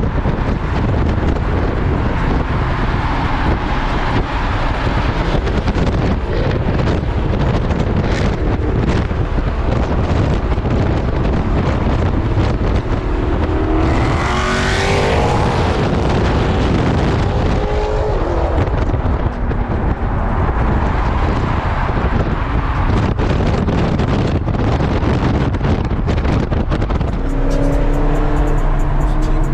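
Muscle car engines running in a steady low rumble, with one engine rising in pitch about halfway through.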